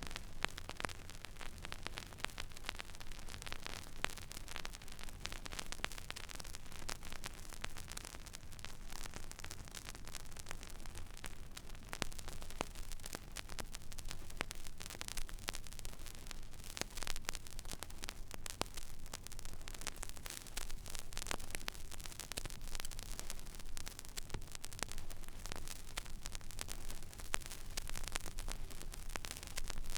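Stylus riding an empty vinyl record groove: steady surface hiss with dense crackle and small pops, over a low hum.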